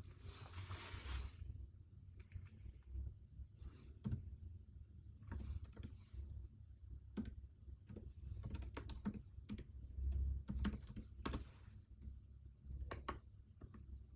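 Typing on a computer keyboard: irregular keystrokes in uneven runs, with a brief rustle at the start.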